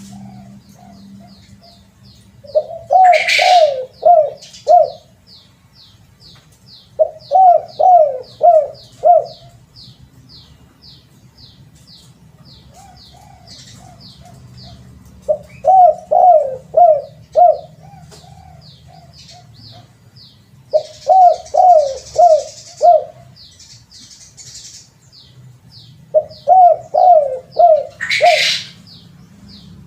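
Spotted dove (terkukur) calling: five phrases of four or five loud, low coos each, a few seconds apart. A fast, regular high-pitched chirping runs beneath, and there are two brief rustling bursts, one about three seconds in and one near the end.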